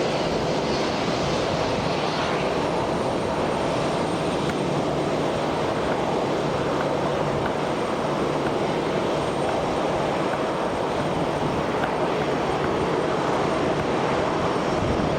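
Airliner's engines running at takeoff power: a steady, even noise as the aircraft makes its takeoff roll and lifts off.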